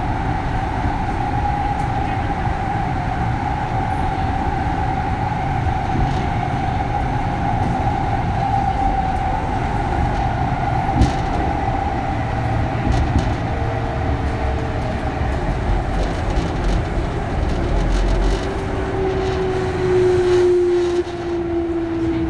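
Early Mitsubishi GTO VVVF inverter and traction motors of a Kintetsu 3200 series motor car, heard from inside the car: a steady whine over the rumble of running, sinking slowly in pitch as the train slows. In the last few seconds a second, lower tone slides downward.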